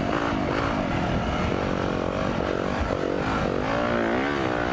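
Four-stroke motocross bike engine running under way on a trail, its revs rising and falling as the rider works the throttle, with wind rush over the microphone.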